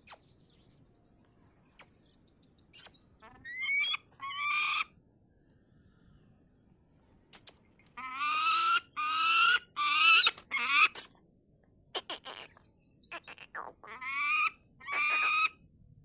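Bird calls: short, high chirps at first, then from about halfway a run of longer, loud calls that each rise in pitch, coming in quick groups.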